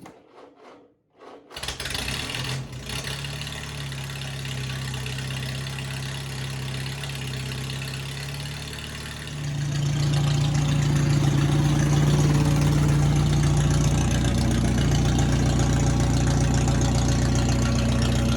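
Flathead engine swapped into a Farmall M tractor starting up about a second and a half in and settling into steady running, running noticeably louder from about nine seconds in; it runs well after its running issue was fixed.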